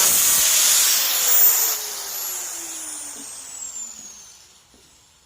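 A handheld power tool running loud, then let off a second and a half in and spinning down, its whine falling steadily in pitch and fading over about three seconds.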